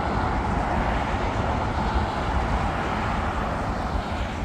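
Jet airliner passing overhead, its engines making a steady rushing noise over a low rumble, easing slightly near the end.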